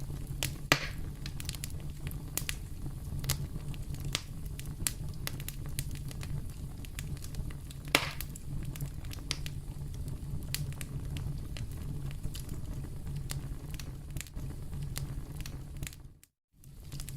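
Campfire burning with a steady low rumble and frequent sharp crackles and pops, two of them louder, about a second in and about eight seconds in. The sound cuts out for about half a second near the end.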